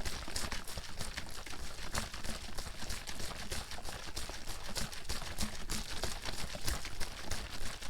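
Water bottle being shaken hard without a break: water sloshing and splashing inside, with a fast, uneven patter of knocks.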